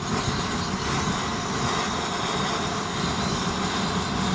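Petrol vaporising burner of a Swiss army field stove running after its fuel tap is opened a little: a steady rushing hiss of burning fuel that steps up in loudness right at the start. The owner takes its weak burning as a sign that the jet needs cleaning out.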